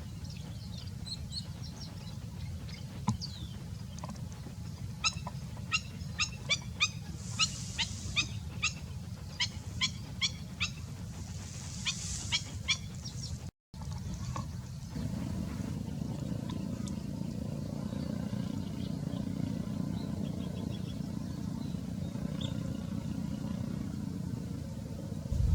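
A bird gives a rapid series of short, high calls, about three a second, over a steady low rumble. The calls stop about halfway through, and only steady low noise follows.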